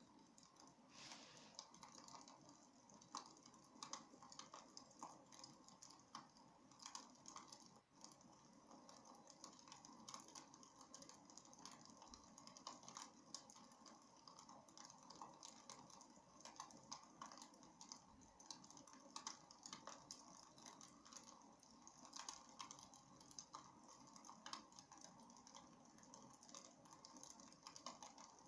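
Faint crackling of a wood fire in a fireplace: many irregular small pops and snaps over a low steady hiss.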